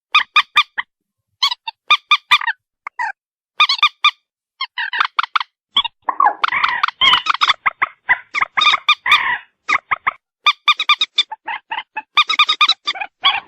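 Moorhen calling: short, harsh pitched notes repeated in quick runs of three to five, with a denser stretch of overlapping calls in the middle.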